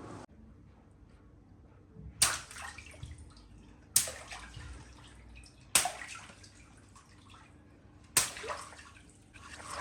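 Water balloons bursting one at a time, four in all about two seconds apart. Each is a sharp pop followed by a short splash and slosh of water.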